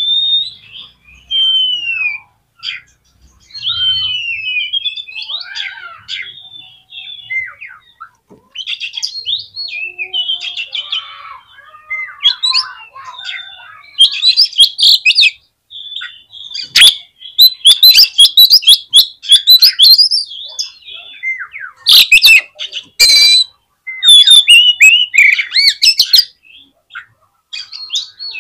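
Oriental magpie-robin (kacer) singing a varied song of whistled glides and chirps. The song turns louder and harsher about halfway through, with rapid scratchy notes. It is the excited kind of song played to rouse other kacer.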